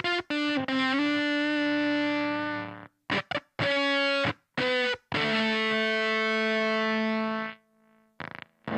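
Electric guitar through a germanium fuzz pedal and a Bluesbreaker-style amp, playing heavily fuzzed single notes. Short choppy stabs alternate with notes held for a second or two, each cutting off abruptly, a gated, sputtering fuzz.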